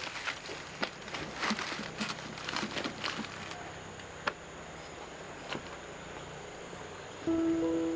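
Irregular clicks and rustles, dense for the first few seconds and then sparse, over a steady high-pitched whine; music starts near the end.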